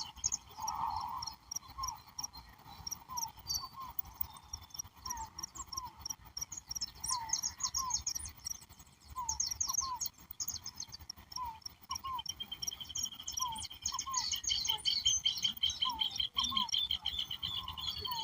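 Dusk animal chorus: a low double call repeats about once a second over a mesh of short high chirps. A steady high trill joins about twelve seconds in and runs on.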